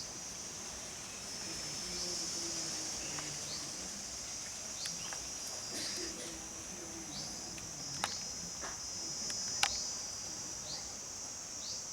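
Steady, high-pitched chorus of insects such as crickets or cicadas, with faint voices in the background and a couple of sharp clicks in the second half.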